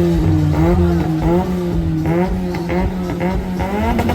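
Car engine revved and held at high revs, its pitch wavering, then climbing higher again near the end.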